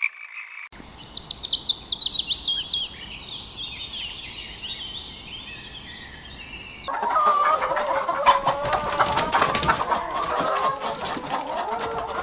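Quick, high chirps that fall in pitch, then from about seven seconds in a flock of chickens clucking, a louder, busy chatter.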